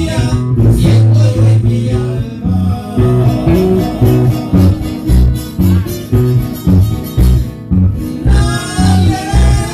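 A live string trio playing: guitars strummed and plucked over a steady, pulsing bass line, with singing near the start and again near the end.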